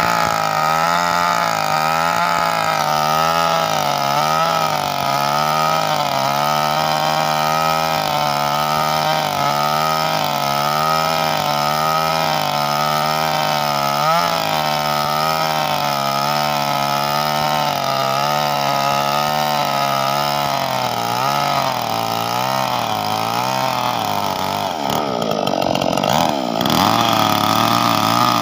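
Engine-driven chaff cutter running steadily, its pitch wavering up and down about once a second. Near the end the pitch briefly sags and wobbles, then steadies again.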